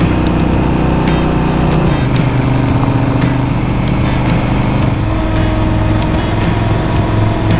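Honda Africa Twin's parallel-twin engine running under way, heard from on the bike; its pitch drops about two seconds in and shifts again about five seconds in, as the bike changes speed or gear.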